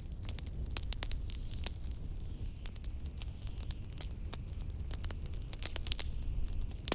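Wood fire crackling in a fireplace, with many quick, irregular pops and snaps. Under it runs a steady low rumble of blizzard wind.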